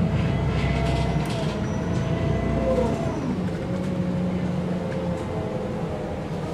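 MAN NG 313 articulated city bus running: a steady low engine rumble with a drivetrain whine that holds and then falls away about three seconds in.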